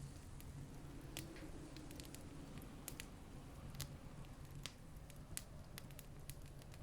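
Wood campfire crackling, with irregular sharp pops and snaps a few times a second over a faint low steady rumble.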